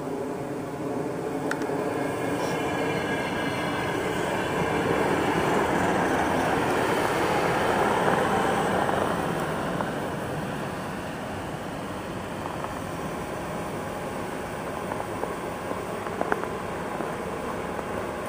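Electric commuter train running in along the platform and braking to a stop: its running noise swells to a peak about eight seconds in as the cars roll past, then settles lower as it halts. A thin high whine comes a few seconds in, and a few sharp clicks sound near the end.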